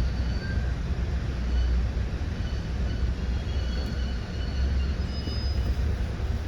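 Commuter train running on the rails: a steady low rumble with faint high-pitched squealing tones from the wheels coming and going.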